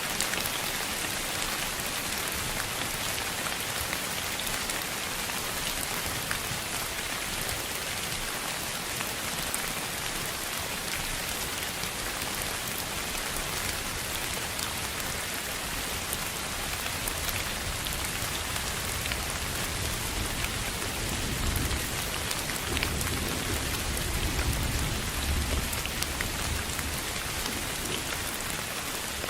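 Steady rain falling on a surface: an even hiss flecked with faint drop ticks. A low rumble swells and fades about three quarters of the way through.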